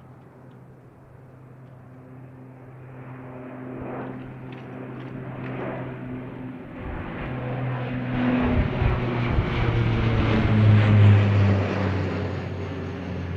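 Airliner taking off, its engines at takeoff power, swelling louder for about ten seconds and then beginning to fade, the engine tones dropping slightly in pitch as it passes.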